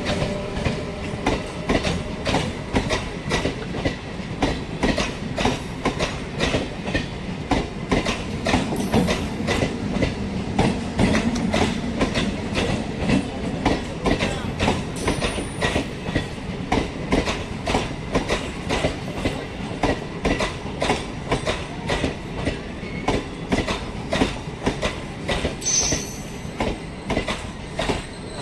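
MEMU electric multiple-unit train running, its wheels clattering over rail joints in a dense, uneven run of clicks. A brief high wheel squeal comes near the end.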